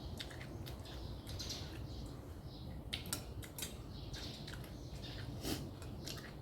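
Close-up eating sounds of a noodle mukbang: wet chewing and lip smacks in quick irregular clicks, with short squeaky mouth noises.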